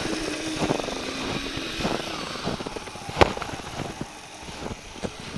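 A motor running with a steady hum, with scattered knocks and one sharp click about three seconds in.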